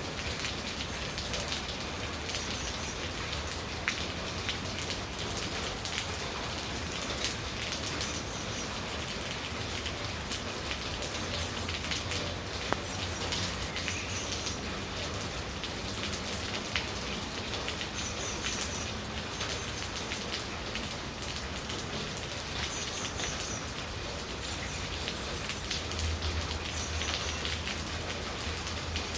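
Steady spring rain falling, a constant hiss with individual drops ticking sharply now and then. A short high chirp recurs every few seconds.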